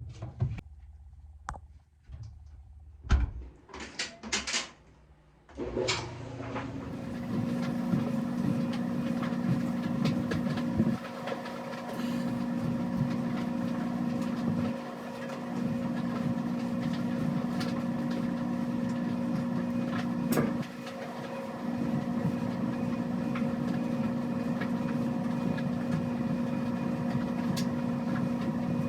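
A few scattered clicks and knocks, then a laundry machine starts about six seconds in and runs with a steady hum.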